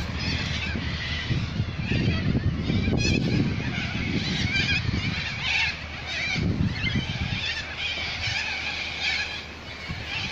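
A chorus of many birds calling at once, with dense overlapping chirps and squawks. A low, uneven rumble runs underneath, strongest in the first half.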